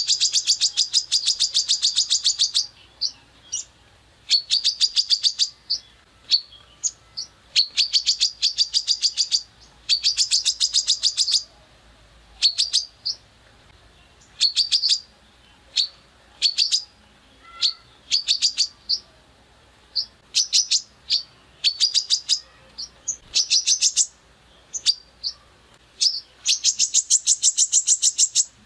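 Songbird singing a harsh 'tembakan' song: rapid trains of sharp, high, clicking notes fired in bursts of one to two seconds, repeated again and again with short pauses between.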